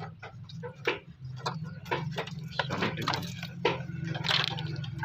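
Workshop background: scattered light clicks and taps at an uneven pace over a steady low hum.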